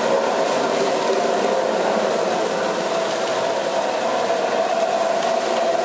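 Rotary floor machine with diamond grinding pads running steadily, grinding down a wet marble floor: an even motor hum with a constant whirring note.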